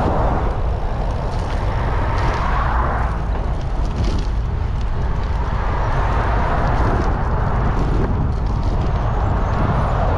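Steady wind rumble on a GoPro's microphone while cycling, mixed with the noise of road traffic.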